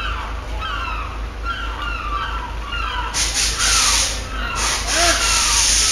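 Birds chirping over and over, a string of short falling calls several times a second. About three seconds in, a loud rushing hiss joins them in gusts.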